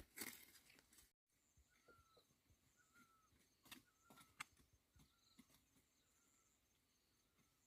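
Near silence: faint background with a few soft clicks and several short, faint chirps.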